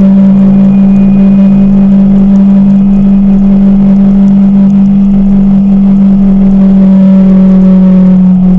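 Kawasaki Teryx KRX 1000 side-by-side's parallel-twin engine running at a steady speed while the machine drives, a loud even drone with no change in pitch.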